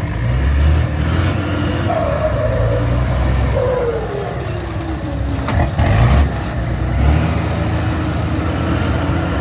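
Six-wheel truck's diesel engine running hard as it reverses over slippery mud, with a falling whine in the middle and a short sharp burst of noise about five and a half seconds in.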